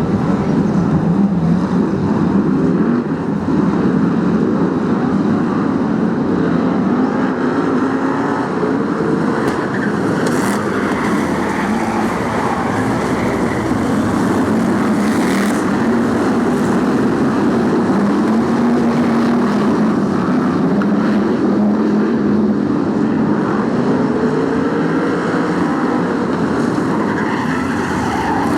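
Pack of BriSCA F1 stock cars racing round the oval, their big V8 engines running continuously and loudly, pitch rising and falling as they accelerate down the straights and lift for the bends.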